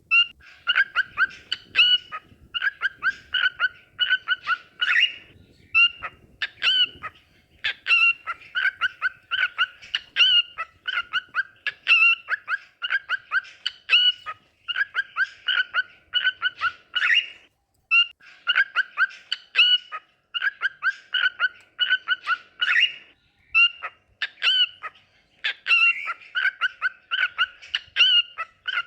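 Cockatiel singing: quick runs of repeated chirping, whistled notes in phrases a second or two long, broken by short pauses.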